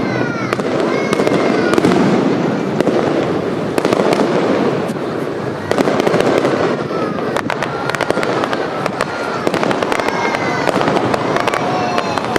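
Fireworks display: a continuous run of aerial shell bursts and crackling reports.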